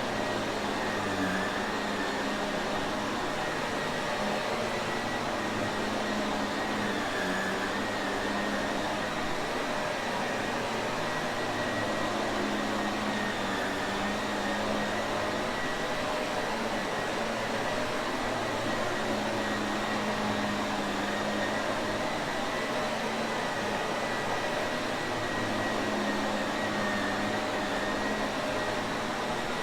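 Shark Navigator upright vacuum cleaner running steadily, a continuous motor whine and airflow rush with a steady low hum.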